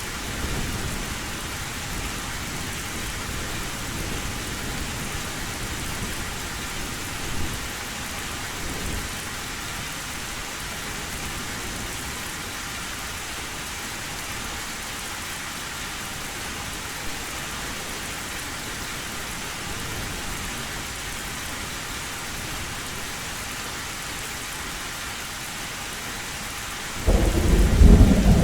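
Heavy rain falling steadily on an old tin roof, with faint low thunder rumbles in the first several seconds. Near the end a loud thunderclap breaks in, much louder than the rain.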